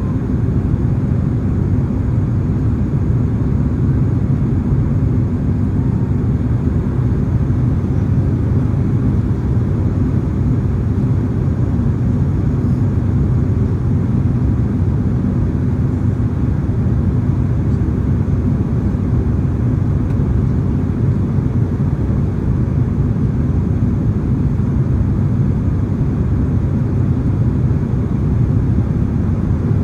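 Steady cabin rumble of a Boeing 767-300ER in flight: engine and airflow noise heard from inside the cabin at a rear window seat, deep and unchanging.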